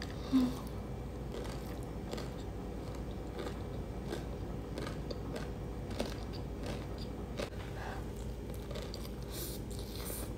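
Close-miked chewing of a mouthful of rice mixed with crispy potato sticks, with many small crunches and wet mouth clicks throughout. A short, louder low tone sounds about half a second in.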